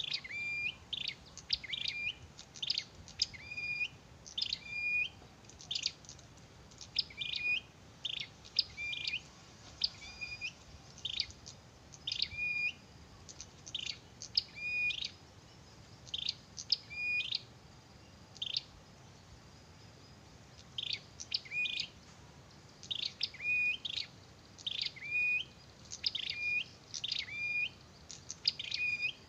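Prinia (prenjak) calling: sharp, short chirps repeated in quick runs, with a lull of a few seconds around the middle.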